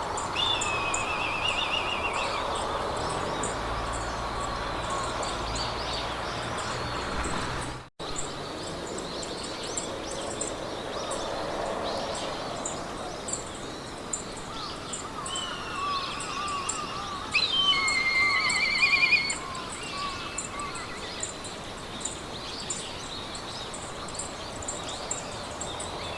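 Meadow ambience: wind through grass as a steady rush, with songbirds singing trilled and warbling phrases, loudest a little past the middle, over a fast, even high ticking. The sound drops out for an instant about eight seconds in.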